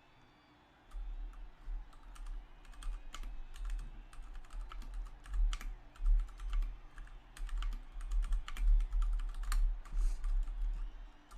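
Rapid, irregular clicking over a low pulsing rumble, starting about a second in.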